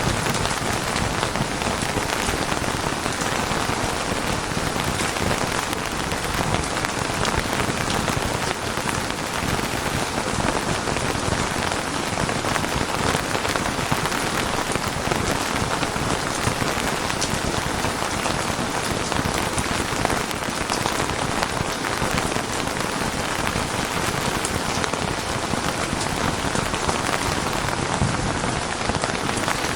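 Steady rain falling on a surface, an even patter of many drops without a break.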